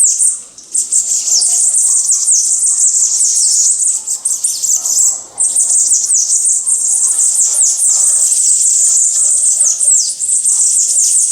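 Small songbirds twittering in a dense run of rapid, high-pitched, falling chirps, with short breaks about half a second in and again just before the middle.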